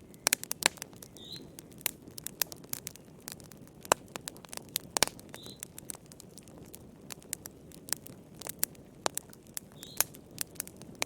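Wood fire crackling in a fireplace: irregular sharp pops and snaps, some loud, over a low steady rush of flame. Three faint, short high squeaks come about four seconds apart.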